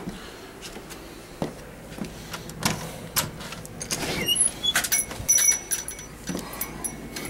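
A run of clicks, knocks and rattles, denser and louder in the second half, with a few short high squeaks around the middle and a sharp knock at the very end.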